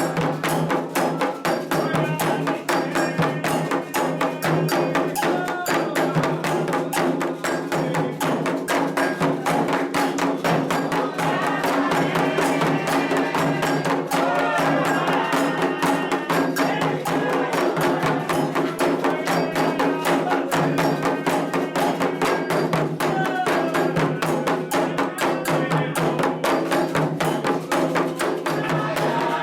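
Candomblé ritual music: fast, steady hand drumming on atabaque drums with a bright metallic or wooden striking beat, and voices singing over it.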